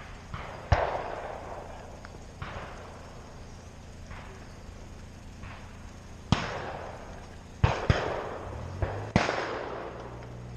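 Shotgun shots at a sporting clays course, some close and some more distant, each ringing out and echoing. There are about eight shots in all, including a quick pair of two shots a fraction of a second apart near the end.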